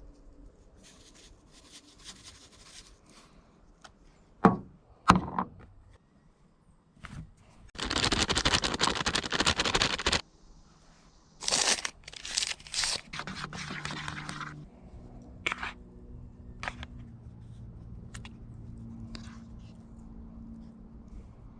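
Food-preparation handling noises: two sharp knocks, a loud scraping, tearing noise lasting about two seconds, then more short scrapes and crinkles, followed by a low steady hum.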